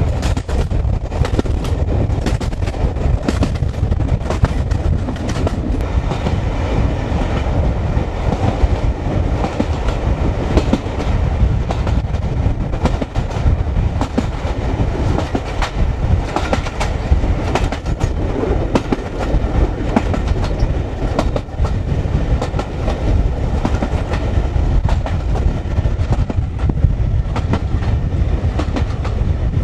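Passenger carriage of the Jacobite steam train running at speed, its wheels clattering over the rail joints with a steady heavy rumble. Wind rumbles on the microphone, which is held out of the carriage window.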